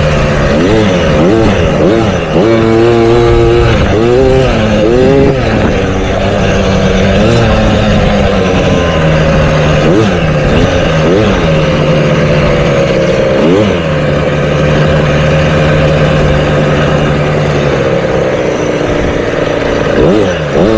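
Motocross bike engine revving up and down again and again as it is ridden, with repeated rises and drops in pitch and a steadier held stretch past the middle.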